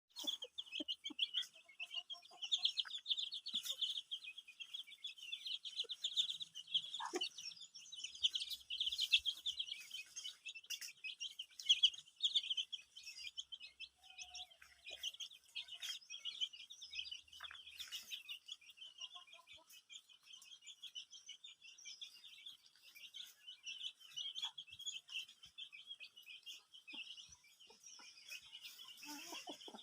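Dense, continuous high chirping of many birds, with a few short lower chicken calls among it.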